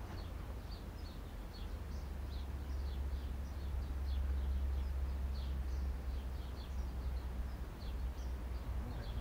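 Birds chirping in short, high, falling notes, several a second, over a steady low rumble of wind on the microphone.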